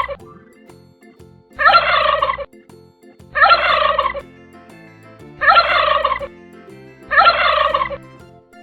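Turkey gobbling: four gobbles, each about a second long, roughly two seconds apart.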